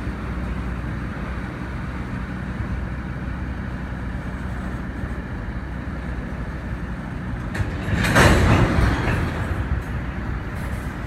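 Train running by with a steady low rumble, and a louder, noisier surge lasting about a second and a half near the end.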